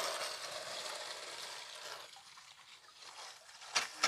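High-pressure water spray hissing against an air conditioner's indoor unit, easing off after about two seconds. Two sharp knocks near the end.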